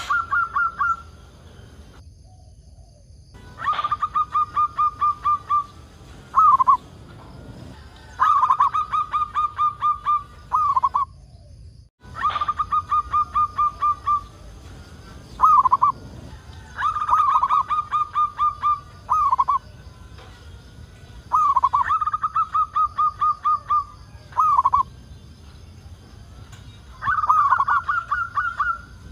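Local perkutut (zebra dove) singing its cooing song over and over: each phrase is a fast run of staccato notes lasting about two seconds, closed by a separate short note, repeated about six times.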